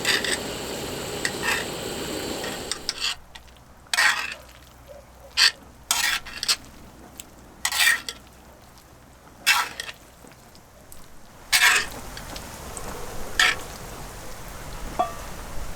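Food sizzling in a pan for about three seconds, then quieter, with a run of short scrapes and clinks of a utensil against cookware.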